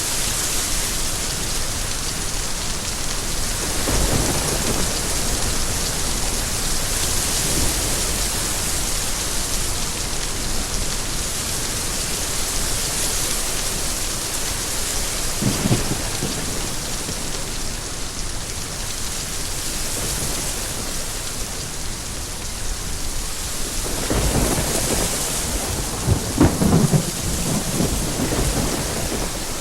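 Steady heavy rain with rolls of distant thunder: a low rumble about 4 s in, another near the middle, and a longer, louder roll near the end.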